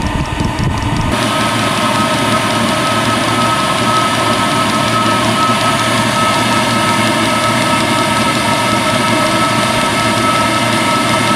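Diesel air heater running, its fans blowing with a steady whine. About a second in, a low rumble drops away and the whine carries on.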